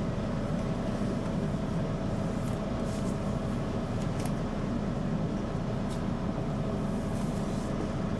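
Hand-held hair dryer running steadily, blowing on a small cat's fur to dry it, with a faint steady hum and a few faint ticks.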